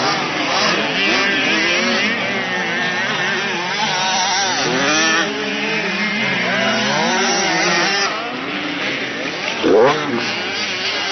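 Several motocross bikes' engines revving and easing off together on a track, their pitches overlapping and rising and falling. Near the end one bike revs up sharply, the loudest moment.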